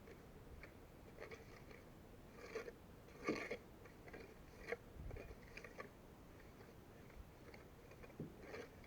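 Faint, irregular scraping and tapping of a plastering trowel working cement mortar, with a louder scrape about three seconds in.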